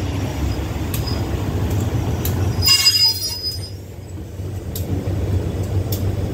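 Passenger train carriages rolling by with a steady low rumble and faint clicks of wheels over rail joints. About three seconds in there is a brief shrill squeal of steel wheels on the rails.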